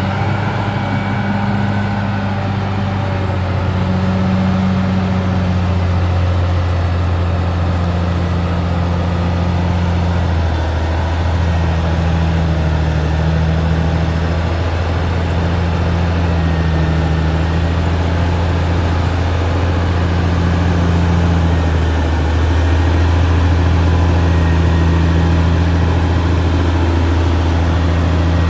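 Caterpillar D6R XL bulldozer's diesel engine running steadily, a deep low note with a slightly higher tone swelling and fading every two seconds or so.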